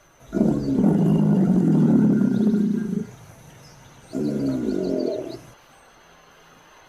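An animal calling loudly twice: a long drawn-out call of nearly three seconds, then a shorter one about a second later.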